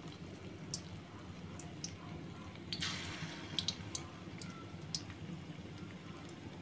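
Batter-coated chicken drumsticks deep-frying in a karahi of hot oil: a faint sizzle with scattered crackles and pops, swelling briefly about three seconds in, over a low steady hum.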